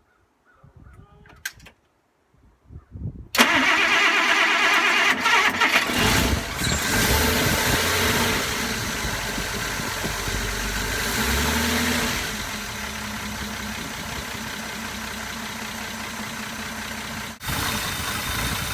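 Cold start of a 1948 Frazer's Kaiser Supersonic 226 flathead six after sitting for days in the snow. The starter cranks it a few seconds in, it catches and runs fast, then settles to a steadier, lower idle about twelve seconds in.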